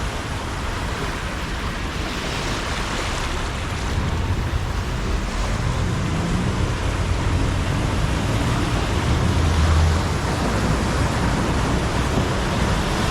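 Steady rush of heavy rain and floodwater, with a car engine building in the middle as a vehicle drives through the flooded street, loudest about ten seconds in.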